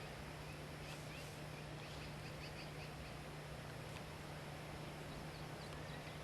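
Faint songbird calls: a quick series of short high chirps, then a single rising note near the end, over a steady hiss and low hum.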